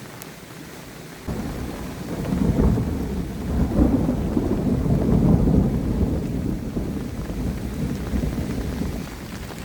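Thunder rumbling over steady heavy rain: the rumble breaks in suddenly about a second in, swells for several seconds and slowly fades.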